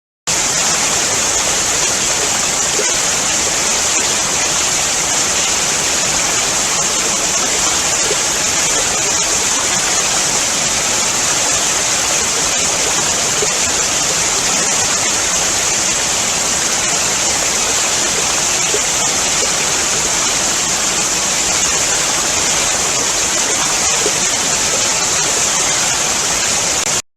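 Waterfall: a steady, unbroken rush of falling water. It starts suddenly and cuts off suddenly near the end.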